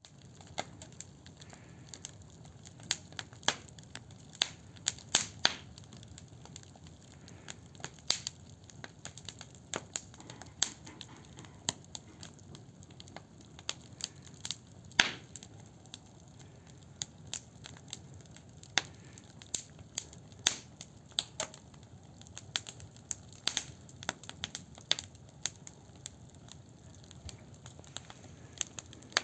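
Firewood burning in a mangal (brazier grill), crackling with irregular sharp pops over a low steady rumble.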